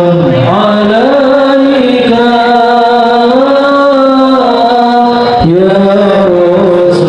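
A male voice chanting melodically in the style of Qur'an recitation (tilawah), with long held notes and ornamented turns in pitch. A new phrase begins about five and a half seconds in with a rising note.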